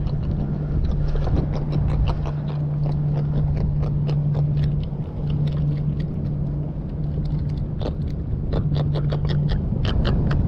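A hand-held jack grunting out of the water, a steady low buzzing croak broken into stretches of a second or two. Wind rumble on the microphone underneath, and a few sharp handling clicks near the end.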